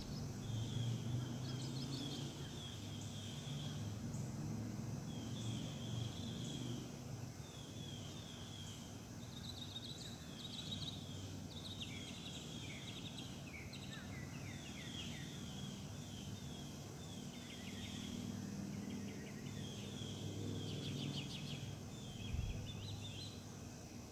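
Several birds singing and chirping in short repeated phrases throughout, over a low steady rumble. One brief knock sounds about 22 seconds in.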